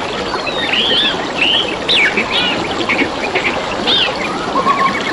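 Several birds chirping and calling in quick, overlapping short whistles and trills over a steady trickle of flowing water.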